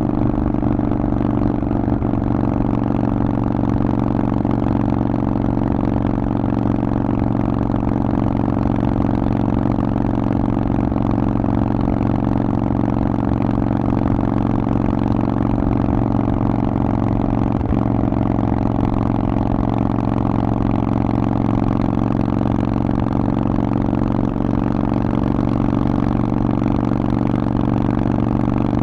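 Harley-Davidson Forty-Eight's air-cooled V-twin running through a Vance & Hines aftermarket exhaust, holding a steady engine speed with no revving up or down.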